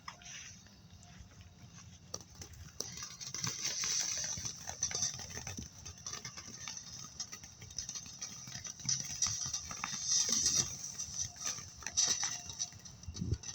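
Consumer ground firework burning: a continuous hiss of spraying sparks, dense with crackles, swelling and fading unevenly.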